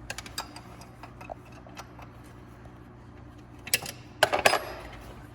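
Wrench and screwdriver clicking and clanking against the fan pulley's studs and nut while the last stuck fan nut is worked loose, with light scattered clicks and then a sharp clank and a louder clatter of metal near the end as it breaks free.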